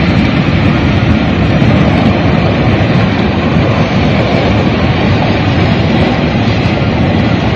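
Floodwater rushing in a loud, steady roar.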